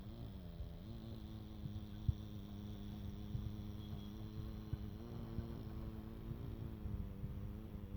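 A machine engine running steadily with a continuous hum; its pitch dips briefly just after the start, then comes back up, with a slight rise again about five seconds in.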